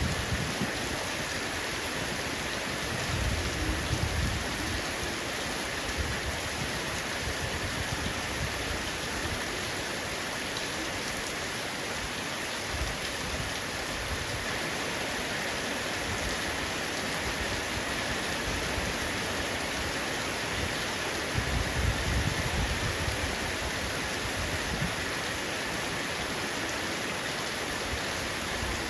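Heavy rain falling steadily on a roof, an even, continuous hiss. A low rumble swells briefly twice, a few seconds in and about three-quarters of the way through.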